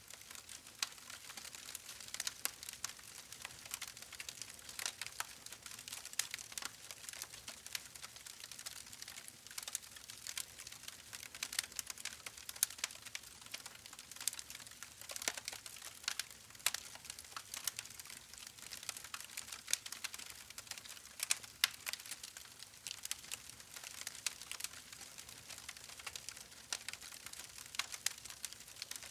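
Wood fire burning in a fireplace, crackling with a steady stream of irregular small pops and snaps over a soft hiss, a few louder pops now and then.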